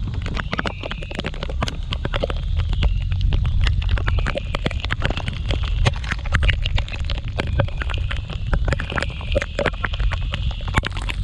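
Wind buffeting the microphone of a moving scooter, a heavy rumble, with many sharp ticks of raindrops striking it over a steady hiss of rain and wet road.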